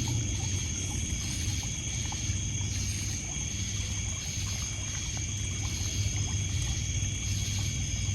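Night insect chorus of crickets: several steady high trills, with one pulsing chirp repeating a little under twice a second. Under it, water laps and trickles on a pebble shore, with faint crackling from a wood campfire.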